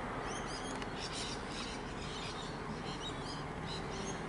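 Birds chirping: many short, high repeated calls over a steady low background rumble.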